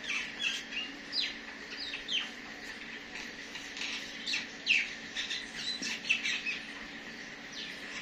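Small birds chirping in irregular bursts of short, sharp, downward-sweeping notes, busiest a little past halfway and dying away near the end.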